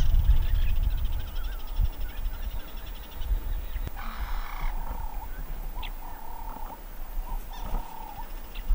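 Frogs calling in an evening bush chorus: a rapid pulsed trill for the first few seconds, then repeated short calls, over a low rumble.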